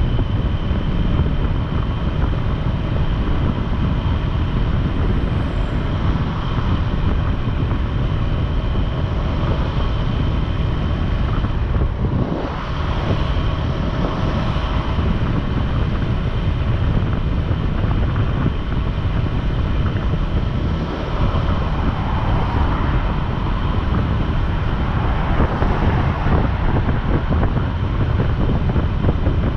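Wind rushing over the microphone of a moving motorcycle, with the hum of the engine and road noise underneath. It holds steady, easing briefly about twelve seconds in.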